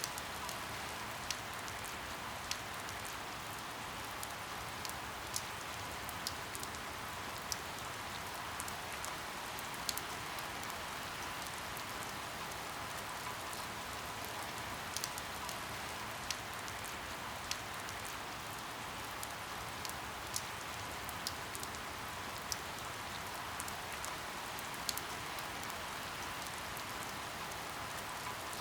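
Steady rain falling, an even hiss with irregular louder drop ticks scattered through it.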